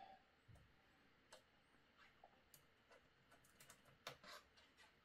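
Near silence with faint, scattered small clicks and ticks from a hand tool working a tight screw.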